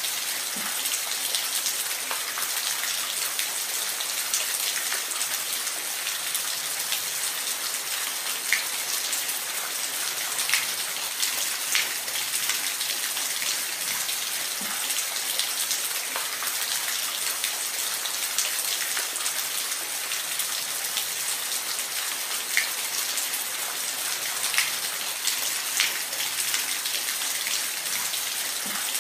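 Steady rain falling, an even hiss with scattered louder individual drop ticks.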